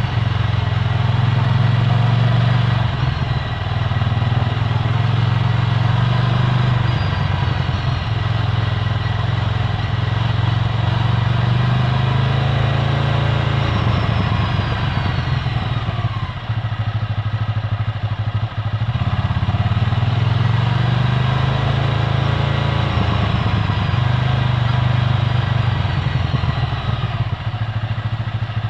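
Ducati Scrambler Full Throttle's air-cooled L-twin running through its Termignoni exhaust while riding. The engine note holds steady, eases off briefly a little past halfway, then picks up again.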